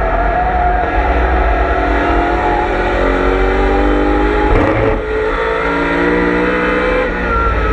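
On-board sound of a BMW M3 E92's V8 racing engine at high revs, its pitch climbing and falling as it drives, with a brief dip about five seconds in and again near the end as the gears change.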